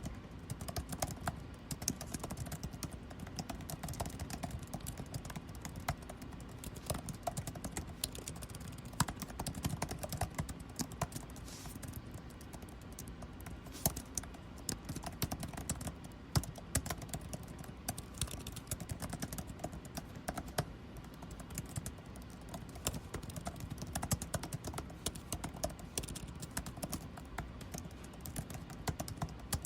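Continuous typing on a computer keyboard, fast irregular key clicks, over the steady low hum of air conditioning.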